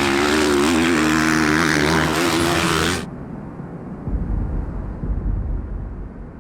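Motocross bike engine revving loudly at high rpm, its pitch rising and falling. It cuts off suddenly about three seconds in, leaving a much fainter engine sound with a low rumble.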